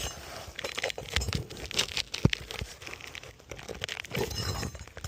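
Asphalt roof shingle being pried up and worked loose: gritty scraping, crackling and sharp clicks and knocks as nails pull through and the shingle tears at its sealed adhesive strip.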